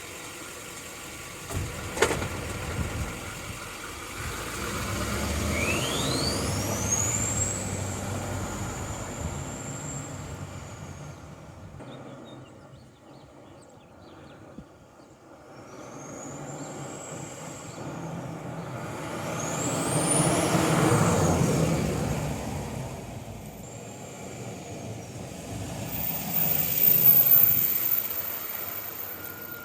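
6.6 L LBZ Duramax diesel with a Stainless Diesel 9-blade aftermarket turbo and stock exhaust pulling under throttle three times. Each time the turbo spools up with a high whistle that sweeps sharply upward, holds, then falls away as the throttle lifts, over the diesel's engine note. A single sharp click comes about two seconds in.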